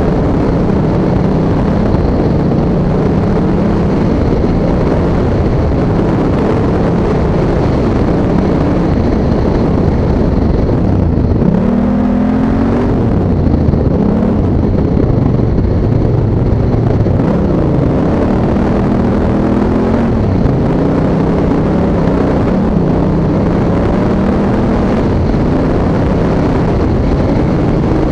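Honda Africa Twin's parallel-twin engine running under load while riding on sand, its revs rising and falling repeatedly as the throttle is worked, with wind rushing over the microphone.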